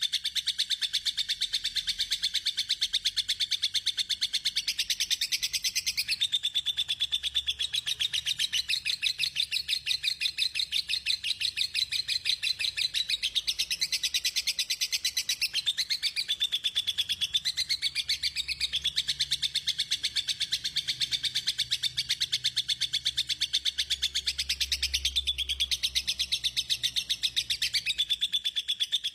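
Small songbird singing a continuous, fast series of high chirps, the rapid burst song that bird keepers call 'tembakan'.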